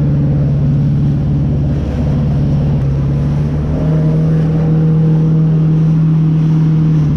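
Jet ski engine running at steady high revs; its pitch steps up slightly about four seconds in.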